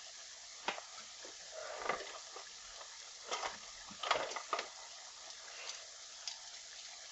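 Tomato stew base frying in vegetable oil in a saucepan: a steady sizzle with irregular crackles and pops.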